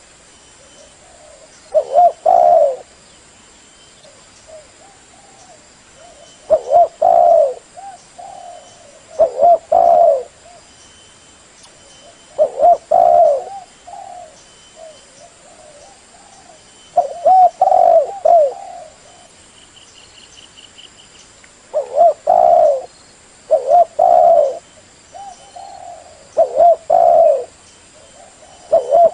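Spotted dove cooing: a loud phrase of a few coos every two to five seconds, with softer coos in between.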